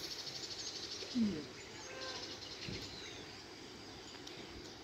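Birds calling, with a rapid high trill in the first second and a short low falling call about a second in.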